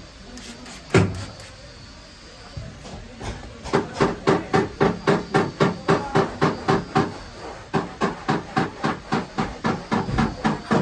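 Hammer striking car body steel: one hard blow about a second in, then from about three and a half seconds a steady run of blows, roughly three a second, as the damaged metal is beaten back into shape.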